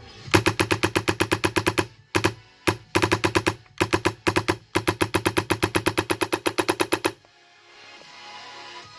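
Airsoft ARP9 with a high-pressure-air engine firing on full auto: a burst of rapid, evenly spaced shots, several short bursts, then a longer burst that stops about seven seconds in.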